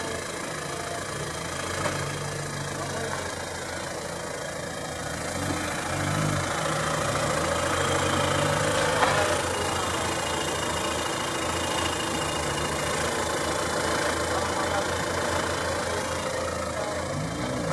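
Hyundai Santa Fe 2.0-litre turbo-diesel engine idling steadily, with one brief sharp click about halfway through.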